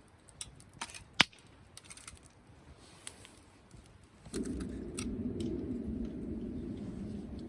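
Campfire wood crackling with scattered sharp pops, one loud crack about a second in. About four seconds in, a steady low rushing noise begins and carries on.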